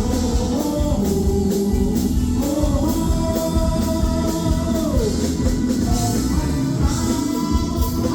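A song with a sung vocal holding long notes, one sliding down about halfway through, over a band with a steady drum beat.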